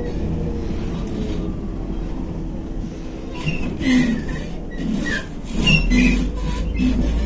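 Interior of a MAZ-105 articulated diesel city bus under way: the engine and drivetrain hum steadily. From about halfway in, the body and fittings clatter and give short squeaks, and the low engine drone grows stronger near the end.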